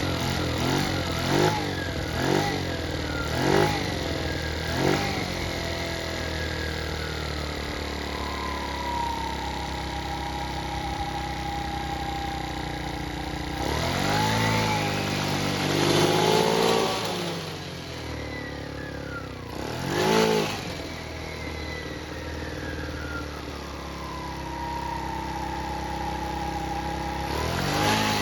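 50cc GY6 scooter engine fitted with an oversized 34 mm racing carburetor, idling and being blipped. There are about five quick revs in the first few seconds, a longer rev about halfway, a single blip soon after, and another near the end, each falling back to a steady idle.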